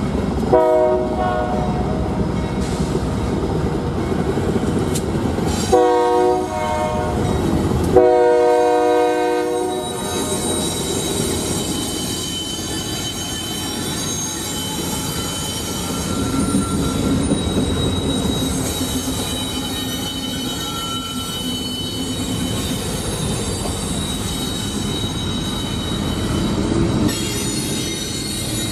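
Union Pacific freight train's diesel locomotive horn sounding three blasts in the first ten seconds, the last one long. The train then rolls through the grade crossing: a steady rumble of the locomotives and double-stack container cars, with a high, steady wheel squeal.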